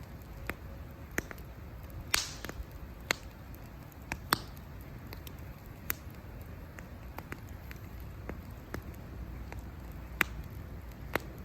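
Wood campfire crackling: irregular sharp pops and snaps of varying loudness over a low, steady rush of burning.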